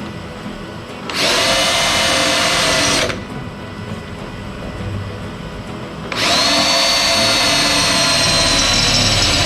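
Electric handheld power tool running at high speed with a steady whine, in two runs: one of about two seconds, then a second starting about six seconds in.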